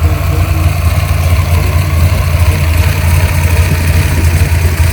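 Car engine running steadily at low revs: a loud, even, low drone.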